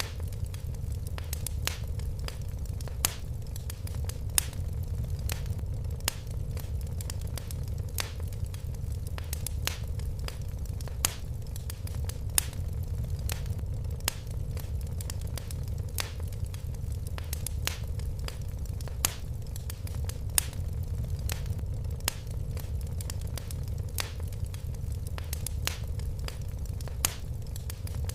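Fire crackling in a fireplace: irregular sharp pops and snaps, a few each second, over a steady low rumble.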